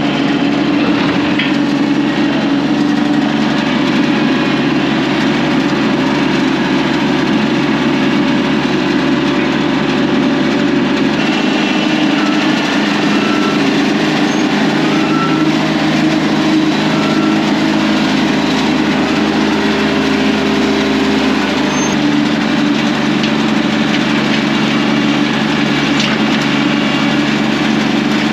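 Diesel engine of a compact construction machine running steadily, its note shifting slightly about eleven seconds in and again about twenty-two seconds in.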